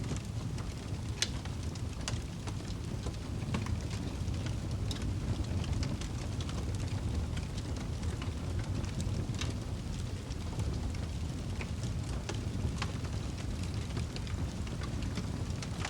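Fire burning in a fireplace: a steady low rumble of flame with irregular sharp crackles and pops scattered throughout.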